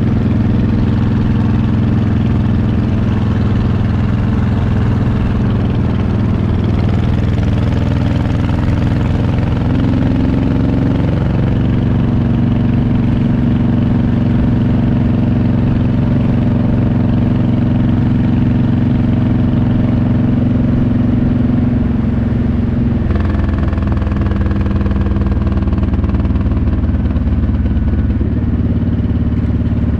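Motorcycle engine running steadily while riding, its pitch stepping up slightly about a third of the way in and dropping about three quarters of the way through.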